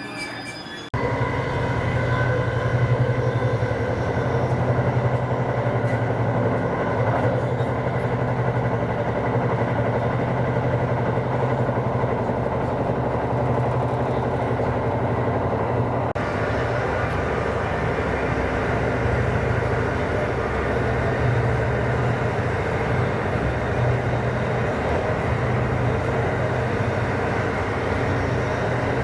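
Passenger train running along the track: a steady rumble with a low hum, in two edited clips joined about halfway through.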